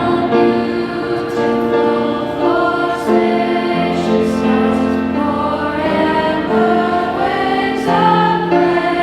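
School choir singing long held chords without clear words, accompanied by piano, the harmony shifting about once a second.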